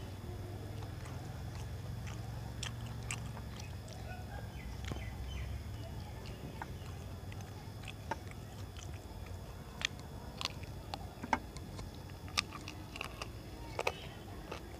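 Close-up chewing and mouth sounds of a man eating rice and curry by hand, with scattered short sharp clicks that come more often in the second half, over a low steady rumble.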